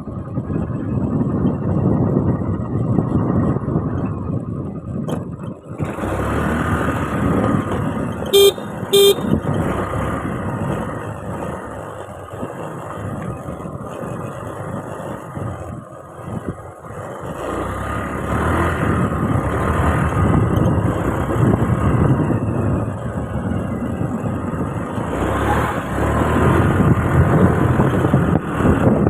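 Motorcycle on the move, with wind rushing over the microphone and the engine running underneath. About eight seconds in, a vehicle horn gives two short beeps in quick succession.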